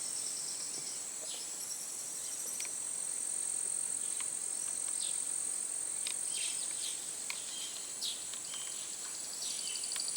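Steady high-pitched drone of rainforest insects, with scattered short chirps over it; near the end a fast pulsing trill joins in.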